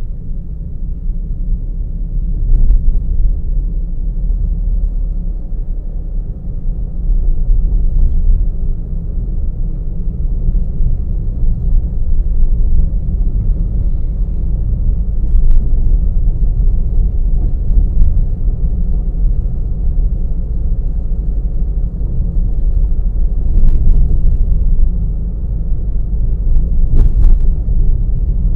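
Car driving along a road, heard from a camera mounted in the car: a steady low rumble of road and engine noise, with a few faint clicks or rattles.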